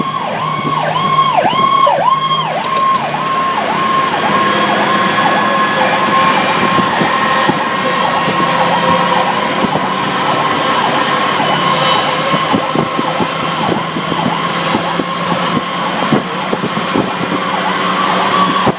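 Fire truck siren heard from inside the cab while responding: it sweeps rapidly up and down in a yelp, about two to three cycles a second, for the first few seconds, then holds a steadier high tone, over road and engine noise.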